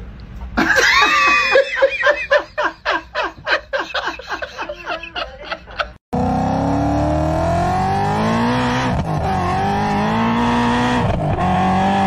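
A rapid run of short pitched pulses that come faster and faster, then a car engine revving hard as it accelerates, its pitch climbing and dropping back twice as it shifts up through the gears.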